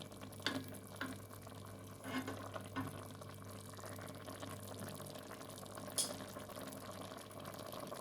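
Lamb frying in oil in a pot, a faint steady sizzle under a low hum, with a few light knocks, the loudest about six seconds in.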